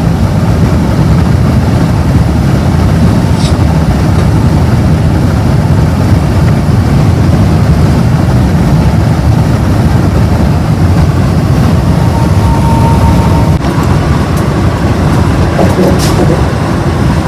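Steady low road rumble heard from inside a car at highway speed: tyre and engine noise.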